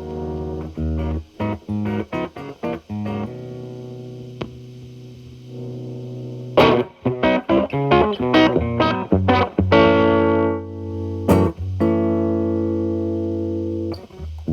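Telecaster electric guitar played through an MI Audio Crunch Box distortion pedal with its gain at minimum, into a Marshall Valvestate amp's clean channel. It plays ringing chords, then short choppy chords, a quick run of notes, and a held chord near the end.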